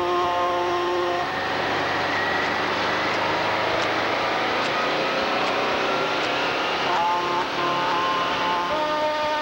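Show trucks in a convoy driving past with their engines running, sounding steady horn tones of shifting pitch during the first second and again from about seven seconds in.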